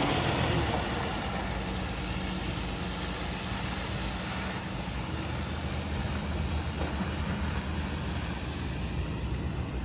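A vehicle engine running at a steady low hum, easing down a little in the first second and then holding even.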